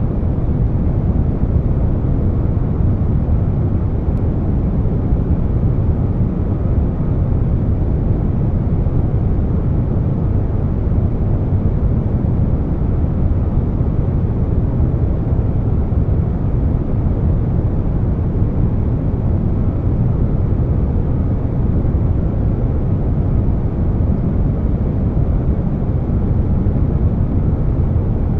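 Air conditioner noise blended with brown noise: a steady, deep, even noise with most of its weight in the low end, without any change.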